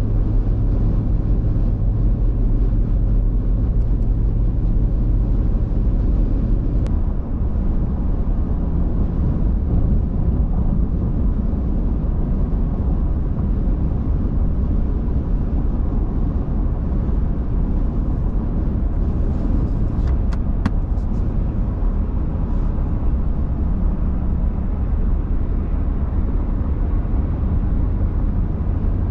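Car driving with a steady low engine and road rumble; a few faint clicks come about seven and twenty seconds in.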